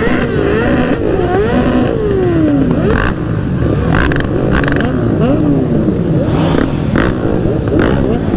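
Several motorcycle engines running and revving together, their pitches rising and falling over one another, with a few short sharper bursts in between.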